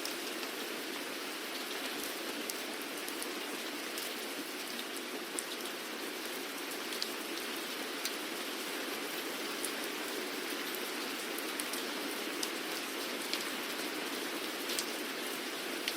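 Steady rainfall: an even hiss of rain with scattered sharper drop impacts landing on a surface.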